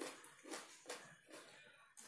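Person chewing a bite of raw red radish with the mouth close to the microphone: faint, crisp crunches about two a second.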